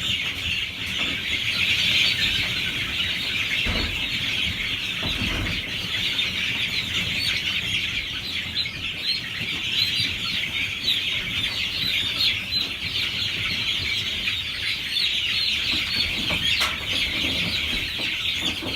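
A flock of about a hundred three-week-old Production Red chicks peeping nonstop, many shrill peeps overlapping into a dense chorus. A couple of dull low knocks sound about four and five seconds in.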